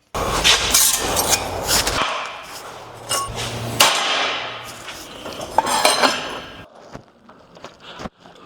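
Blacksmith's hammer striking steel on the anvil, a series of sharp blows with brief metallic ringing, over a steady rushing noise that cuts off about six and a half seconds in.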